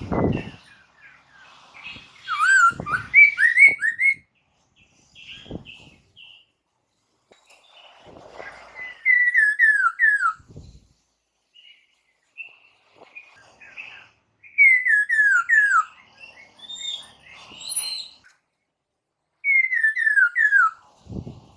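Poksay mandarin, a laughingthrush, singing loud whistled phrases. Each phrase is a quick run of four or five notes sliding downward, and phrases come about every five seconds with scratchy chatter between them. A few brief low thumps fall in among them.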